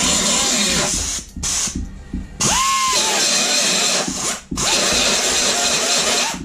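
Handheld finger (belt) sander working the steel of a welded door-bottom repair, running in bursts: it cuts out briefly three times and spins back up with a rising whine after each pause, then stops near the end.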